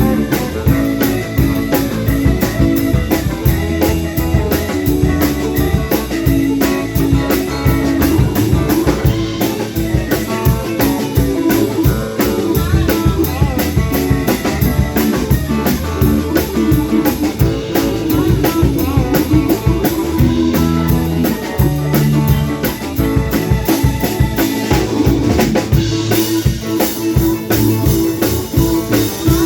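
Band music with a drum kit and guitar playing a steady, driving beat.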